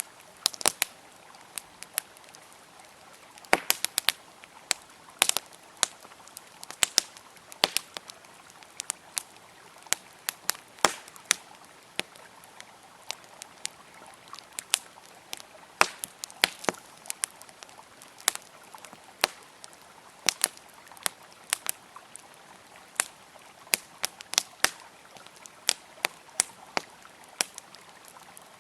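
Campfire crackling, with sharp irregular pops and snaps several times a second. Under it runs the steady rush of a flowing river.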